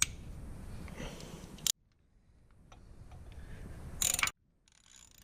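Metal hand-tool work on a pit bike's engine case bolts: a few sharp clicks and clinks of a wrench and loose bolts, with a louder metallic clatter about four seconds in. The sound cuts out dead twice.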